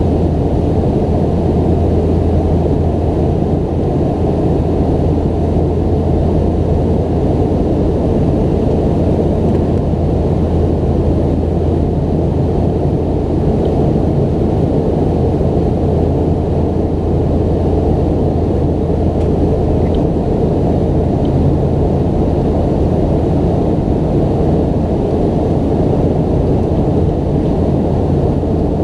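Steady cabin noise inside a McDonnell Douglas MD-90-30 airliner: the low drone of its two rear-mounted IAE V2500 turbofans mixed with airflow rush, unchanging throughout.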